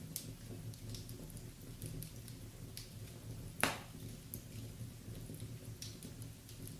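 Wood fire in a fireplace crackling: scattered small pops, one louder pop about three and a half seconds in, over a low steady hum.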